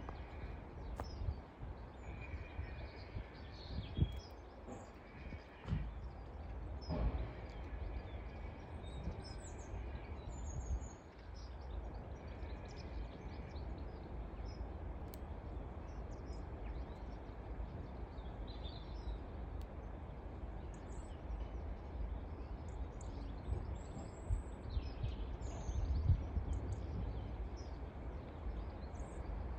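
Outdoor background noise: a steady low rumble with small birds chirping on and off and a few brief knocks.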